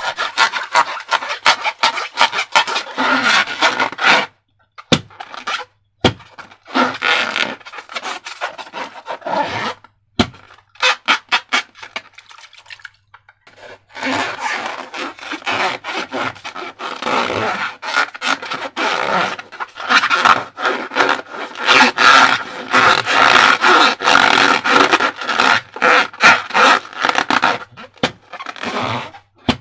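Rubbery squeaking and scraping of a latex balloon with sticky slime squishing, in an uneven run of crackly rubs that stops briefly a few times.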